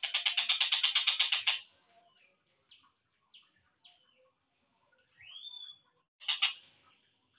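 Kingfisher (tengkek buto) calls slowed down: a loud harsh rattling series of notes, about ten a second, for about a second and a half, then scattered short chirps, a rising call about five seconds in and another brief rattle just after six seconds.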